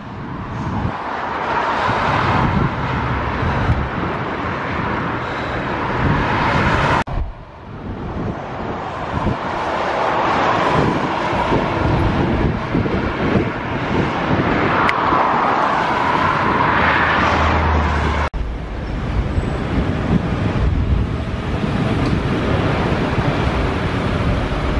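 Road vehicle and traffic noise with wind on the microphone, changing abruptly twice.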